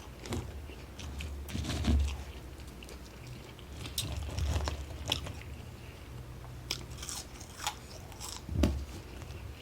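Close-up eating sounds: biting into and chewing a quarter pounder with cheese and fries, with short crunches and wet smacking at irregular intervals.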